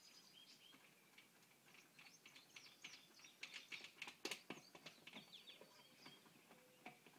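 Faint birds chirping, with a few light clicks and taps in the middle.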